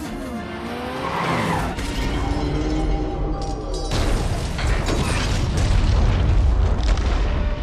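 Action-film car-chase sound effects: vehicles running with skidding tyres, a heavy crash or boom hitting about four seconds in, then a loud low rumble, with score music underneath.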